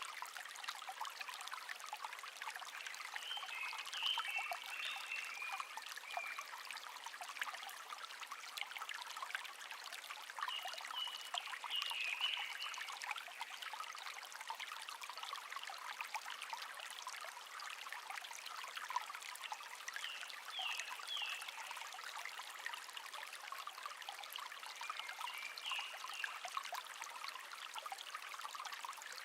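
Shallow stream babbling and trickling steadily over stones. A small songbird sings short chirping phrases four times, several seconds apart.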